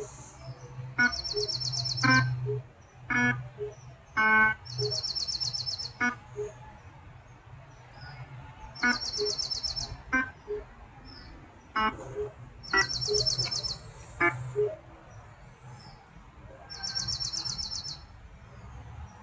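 Birds singing: a high, fast trill about a second long repeats five times, roughly every four seconds, with short chirps between, over a low steady hum.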